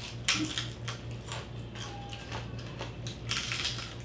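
Chewing and crunching of crispy roast pig (lechon) skin and pork, as irregular crackly crunches with a denser run of crunching near the end.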